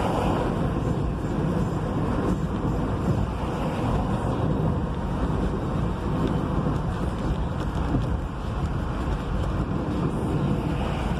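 Steady engine and road noise inside the cab of a moving vehicle in city traffic.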